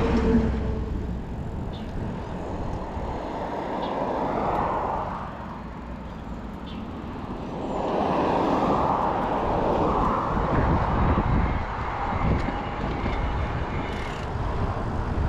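Road traffic on a busy boulevard: cars swell past about four seconds in and again around eight to eleven seconds, over a steady low rumble of wind on the microphone.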